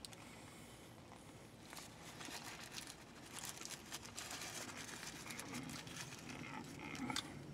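Faint chewing of a crunchy-crusted fried chicken fillet sandwich, with light crinkling of its paper wrapper: irregular soft crackles and rustles, busiest in the second half.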